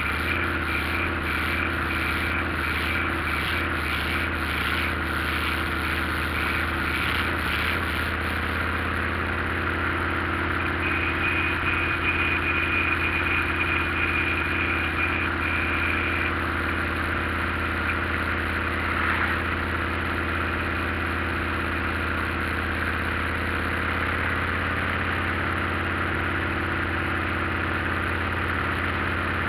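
Motorcycle engine running steadily under way, a constant low hum with road and wind noise. A high thin whine comes and goes over it.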